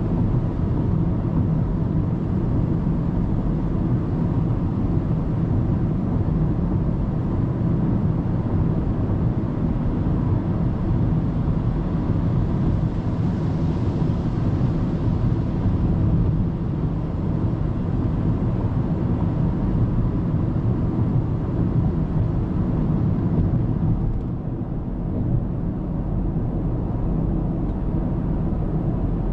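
Steady road and engine noise of a car driving at speed on an expressway, picked up by a dashcam inside the car. The hiss swells briefly about halfway through, and the level dips slightly a little later.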